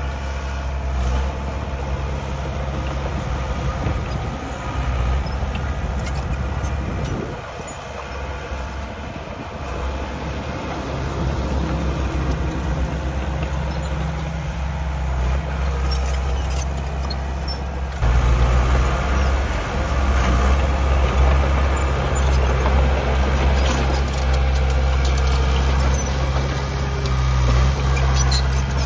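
Heavy diesel engines of earthmoving machinery running. The engine note dips for a few seconds about a quarter of the way in and steps up sharply about two-thirds through, with scattered metallic clanks.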